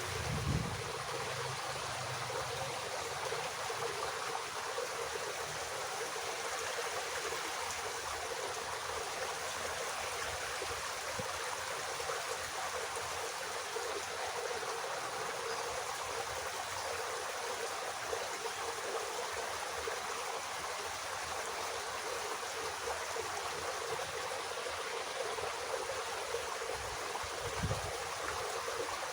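Water flowing steadily in a small irrigation ditch, an even rushing trickle.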